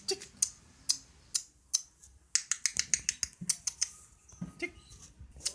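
Lovebird giving short, sharp, high-pitched chirps, scattered at first and then a quick chattering run of them about halfway through.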